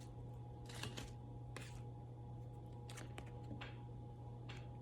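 Quiet room tone: a steady low electrical hum, with a few faint, scattered clicks and soft rustles.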